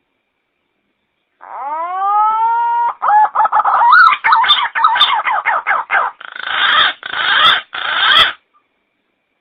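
Pink-necked green pigeon (punai gading) call, as used for luring: a rising whistle, then a quick run of warbling notes, ending in three harsh rasping bursts.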